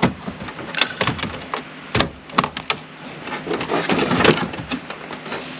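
Plastic dashboard trim being handled and pried by hand: irregular sharp clicks and knocks, several close together about two seconds in, with rubbing and rustling near the middle.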